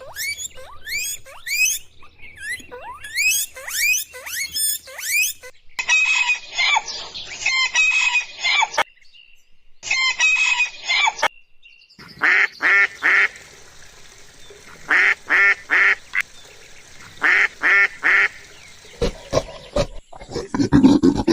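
A run of edited-together bird calls. First come quick rising calls about twice a second, then a dense chatter of many birds, then loud calls in groups of three. A low rumble comes in near the end.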